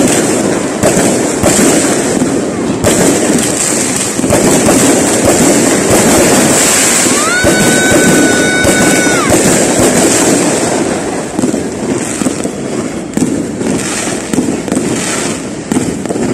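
Fireworks bursting overhead in a rapid, continuous crackle of pops and bangs. About halfway through, a steady whistle sounds for about two seconds over the crackling.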